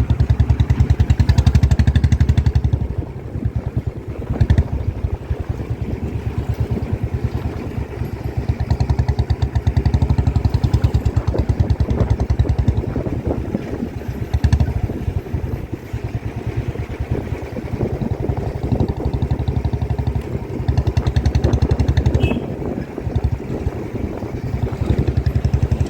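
Motorcycle engine running on the move, its note swelling and easing several times, with irregular knocks and clatter from riding over a rough, potholed road.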